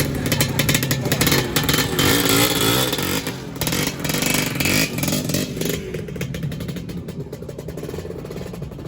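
Two-stroke Lambretta scooter engines revving as scooters ride off, the pitch rising and falling with the throttle. The sound fades away over the second half.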